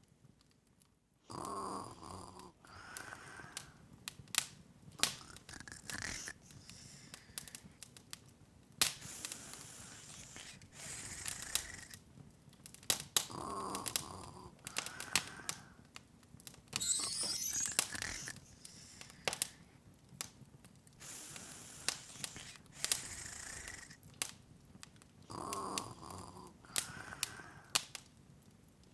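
Fire crackling and popping with irregular sharp snaps, a looped fireplace sound. A short soft sound recurs about every twelve seconds, and a brief rising sparkle shimmer sounds a little past halfway.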